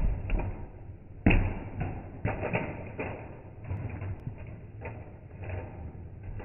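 Toy monster truck knocking and clattering as it bounces and lands during a freestyle run: a string of sharp knocks at uneven spacing, the loudest about a second in.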